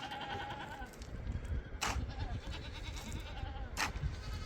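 Goats bleating: a wavering call at the start and another shorter one in the middle. Sharp knocks come about every two seconds, over a low rumble that starts about a second in.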